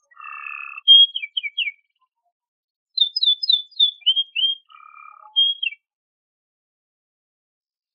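Domestic canary singing: a buzzy rattle and a run of quick down-slurred whistled notes, a pause of about a second, then a second run of rapid whistles with a short buzzy note.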